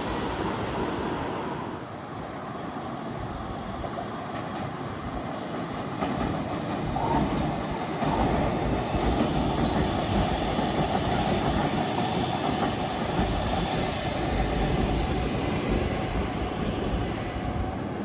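Stockholm Metro train running on the rails, a continuous rumble and rattle that grows louder about six seconds in, with a steady high tone held for several seconds from around seven seconds in.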